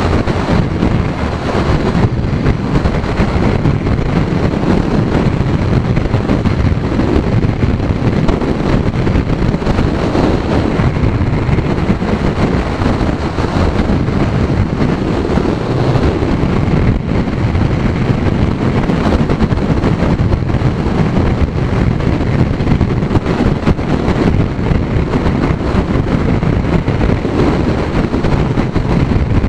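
Loud, steady wind rush on the microphone of a Kawasaki Z900 motorcycle rider at road speed, in strong wind.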